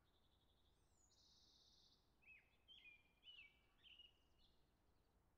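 Faint bird song: a short high buzzy trill, then a string of four or five quick chirping phrases.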